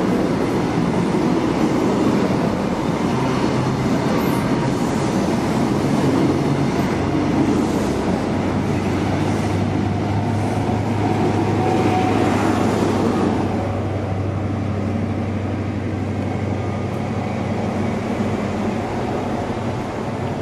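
An InterCity 125 High Speed Train moving slowly through the station: Mark 3 coaches rolling past over the rails, with the low steady drone of a Class 43 diesel power car. The rumble and drone fade noticeably about two-thirds of the way through.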